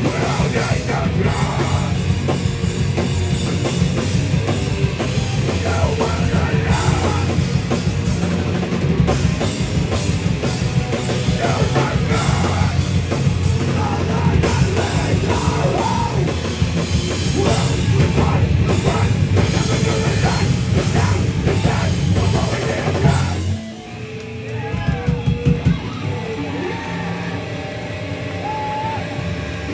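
Live heavy metal band playing loud, with pounding drum kit and distorted guitars. The song cuts off about 23 seconds in, followed by a few separate drum hits and lower amplifier noise.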